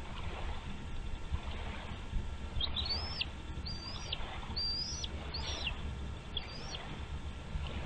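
Bald eagle calling: five high, thin whistled notes about a second apart, each rising sharply and then dropping, over a steady low rumble.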